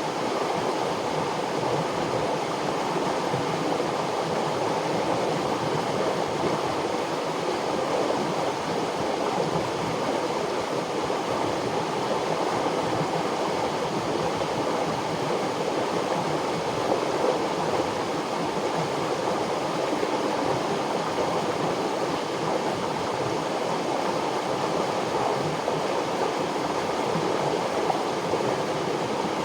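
River water flowing, a steady unbroken rush that does not rise or fall.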